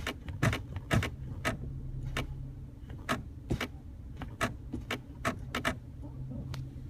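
Repeated sharp clicking from the center console of a 2010 Chrysler 300, coming as the brake pedal is pressed, about two clicks a second and unevenly spaced, over a low steady hum. The owner says the clicking is new and made worse by rainy weather.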